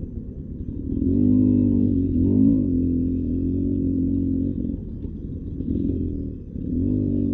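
Beta 300 RR two-stroke dirt bike engine on and off the throttle. It pulls steadily from about a second in, eases off for about two seconds, then picks up again near the end.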